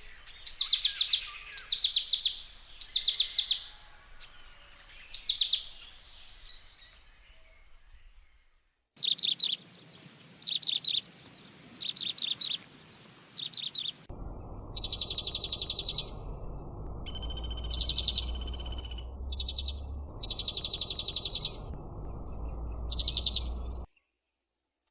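Nestling birds chirping in short, high, repeated bursts, like begging calls from the nest. A low rumble runs under the last part.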